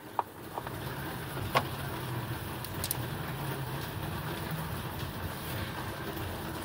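Steady hiss of rain with a low hum beneath it, and a few light clicks of metal bolts being handled.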